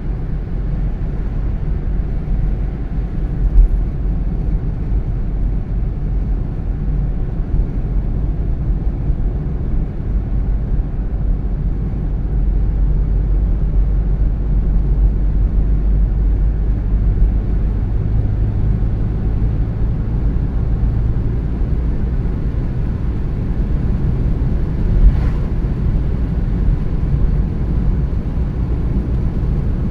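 Car driving at steady speed: a continuous low road and tyre rumble with engine noise. A single thump comes about three and a half seconds in, and a short knock about 25 seconds in.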